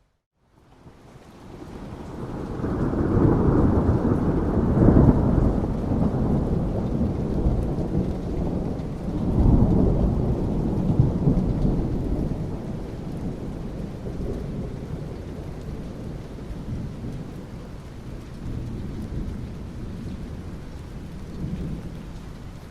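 Thunder rumbling over steady rain. After a brief dropout at the start, a long low rumble builds over a couple of seconds, swells again about ten seconds in, and slowly dies away under the rain hiss.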